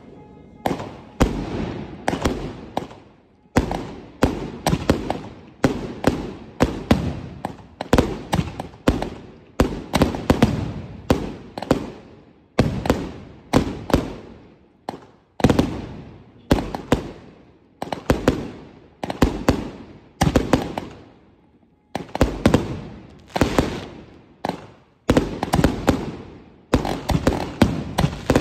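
Aerial fireworks shells fired in quick succession, about one to two sharp bangs a second, each fading in a crackling tail. Near the end comes a dense flurry of crackling pops.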